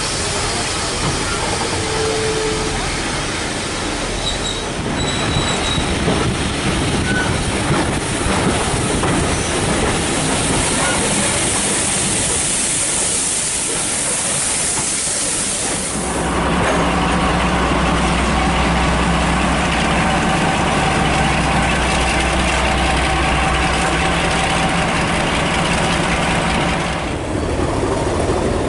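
Railway locomotive sounds: a steady rushing hiss for about the first half, then an abrupt change to a steady engine drone with a low hum, which shifts again near the end.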